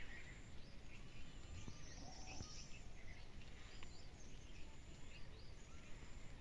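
Birds chirping with scattered short calls, over a steady low rumble of wind or handling noise, with a thin high insect-like tone coming and going.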